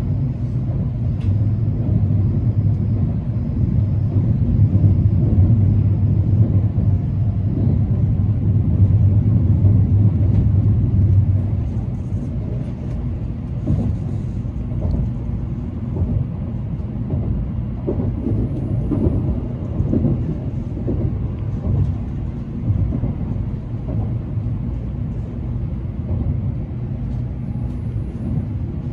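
Tokaido Shinkansen train running, a steady low rumble heard inside the passenger cabin. It is louder for the first eleven seconds or so, then settles a little lower.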